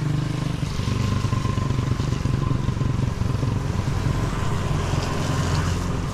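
Small motorcycle engine running steadily, its pitch shifting slightly now and then.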